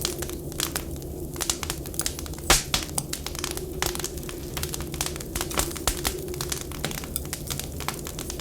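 Wood fire in a fireplace crackling, with irregular sharp pops and snaps, the loudest about two and a half seconds in, over a steady low background.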